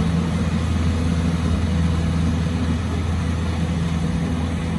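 Rice combine harvester's engine running steadily with a low, even hum while it works the crop.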